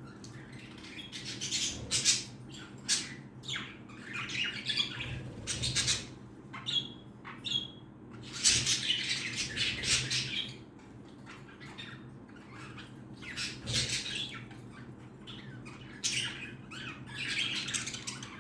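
Pet chicken making short squawks and chirps, with bursts of sharp clicks and rustling between them.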